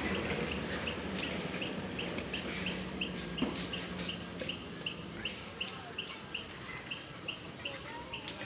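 Short high chirps repeating evenly about three times a second, over the scattered crackles and pops of a large bonfire burning.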